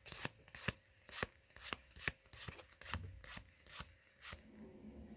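Trading cards being flipped one at a time off a booster pack, each card giving a crisp snap, about three a second and irregular, stopping about four seconds in.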